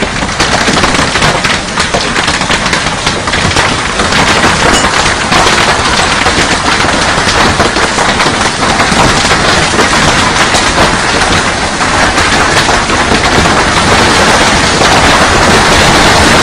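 Heavy rain pelting down on a hard surface: a loud, dense crackle of countless drop impacts, growing slightly louder near the end.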